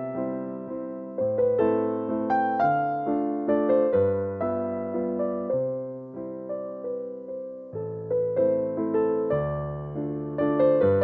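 Background music: a gentle solo piano waltz in A minor, with low bass notes under fading chords.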